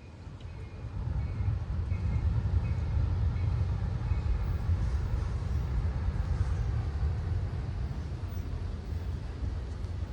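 Great Lakes Central Railroad train passing with its diesel locomotives, a low rumble that builds over the first second and then holds steady.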